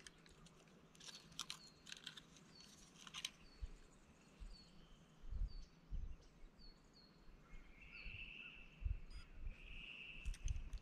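Faint birdsong: a run of short high chirps, then two longer buzzy notes near the end. Light clicks and soft knocks come with it as a bass is handled and hung on a hand scale.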